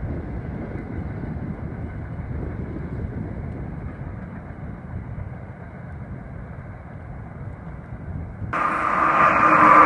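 Low rumble of an NJ Transit commuter train pulling away into the distance. About eight and a half seconds in it cuts to a much louder passing Amtrak train, with a steady tone in it.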